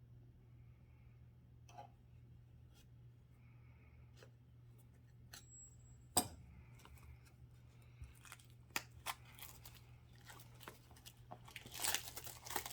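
An oracle card deck being unwrapped by hand: scattered light clicks and taps, one sharp click about six seconds in, then plastic wrap crinkling and tearing near the end.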